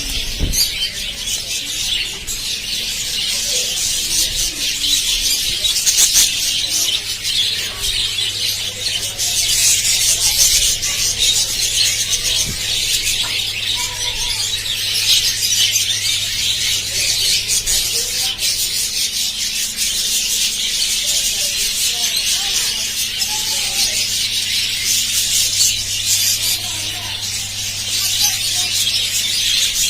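A flock of budgerigars chattering and warbling without a break, a dense mass of high chirps and squeaks.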